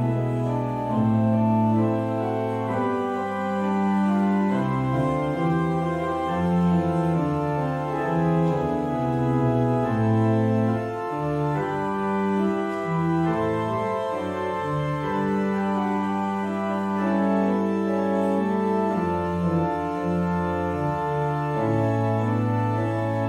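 Organ playing slow, sustained chords over held bass notes that change every few seconds.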